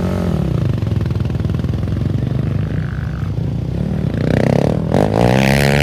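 Off-road race vehicle engines running. The pitch swells and falls right at the start, then about four seconds in a louder engine revs up and holds a high, loud note.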